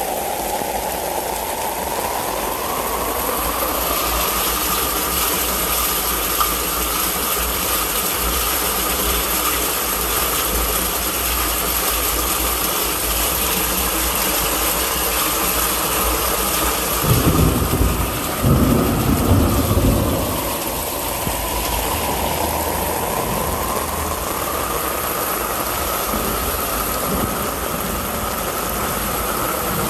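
Heavy rain and rushing storm water in a yard drainage system during a downpour, a steady wash of noise that swells and eases slowly. A low rumble comes in for a few seconds past the middle.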